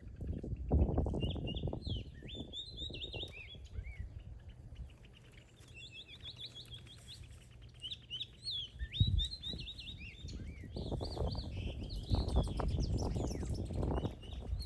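Several small backyard birds chirping at once, a steady stream of quick, high, overlapping chirps. Low rumbling noise comes in about a second in and again from about eleven seconds on.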